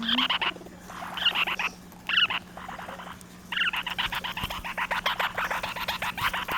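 Small pet parrots chattering in short raspy, rapidly pulsed bursts, then a longer run of fast chatter from about three and a half seconds in.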